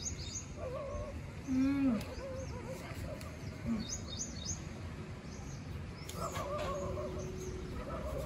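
Small birds chirping: two quick clusters of high, short chirps, one at the start and one about four seconds in, over steady outdoor background noise. A brief low sliding sound comes about one and a half seconds in.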